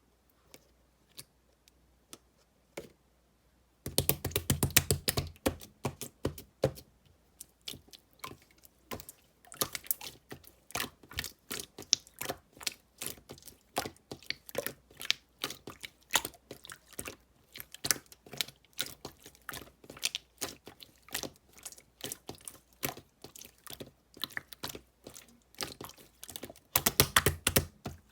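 Pink pearl slime being squeezed and kneaded by hand, making rapid wet clicks and pops. A few scattered clicks at first, then dense popping from about four seconds in, loudest just after it starts and again near the end.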